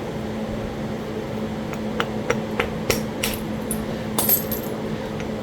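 Sharp clicking strikes of flintknapping on Talahata quartzite, a stone percussor hitting the edge of a spall to drive flakes off. About six or seven strikes begin about two seconds in, with a quick cluster near the end, over the steady hum of a room fan.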